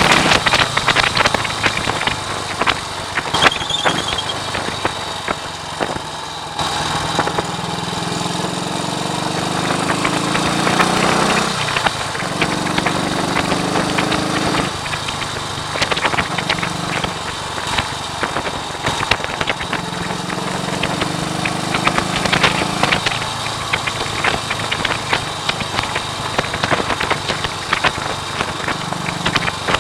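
1939 AJS Model 22 250 cc single-cylinder motorcycle engine under way, its note climbing over a few seconds and then dropping several times as it accelerates and changes gear. Wind buffeting the microphone crackles and rushes over it throughout.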